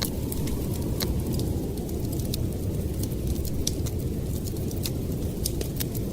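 Steady low rush of blizzard wind, with a wood fire crackling in sharp, scattered pops over it.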